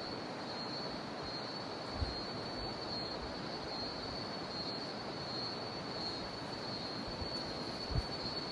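Jungle river water rushing steadily, with a continuous high-pitched cicada drone above it and a couple of brief low bumps.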